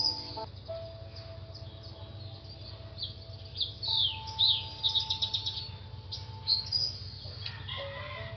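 Small birds chirping: a string of short high chirps, several falling quickly in pitch, with a fast trill about halfway through.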